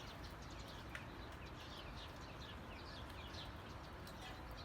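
Small songbird chirping faintly in a quick series of short, falling notes, a few each second, over a low, steady background rumble.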